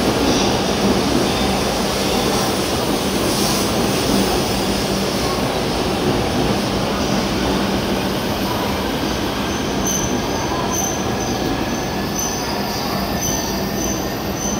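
E5 series Shinkansen train running slowly past along the platform as it pulls in to stop: a steady rumble and hiss from the wheels and running gear. A faint whine comes in during the second half, and a light regular ticking in the last few seconds.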